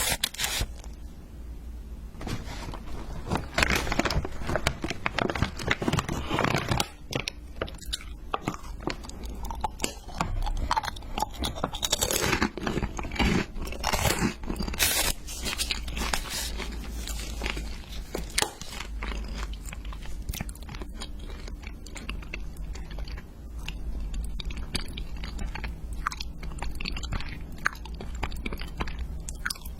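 Close-up eating sounds: crunchy bites and chewing, a dense run of sharp crunches that comes and goes in bursts.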